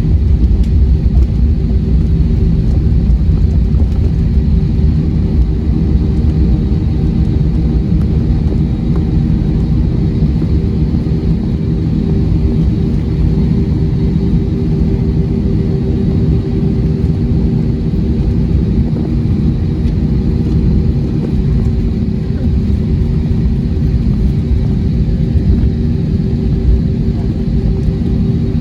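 Steady low rumble inside the cabin of an Airbus A321-231 with its engines running, with a constant hum over it.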